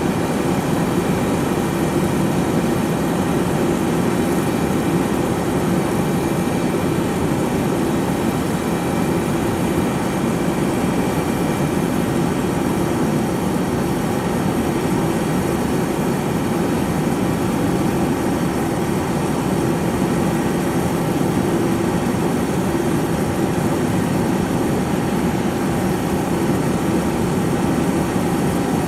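Airbus A321-200's jet engines running steadily, a constant rumble with a steady whine on top that neither rises nor falls.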